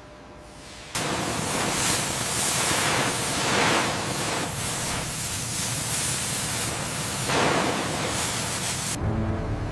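Cutting torch hissing as it cuts through metal: a loud, steady hiss that starts abruptly about a second in, swells slightly now and then, and stops suddenly near the end.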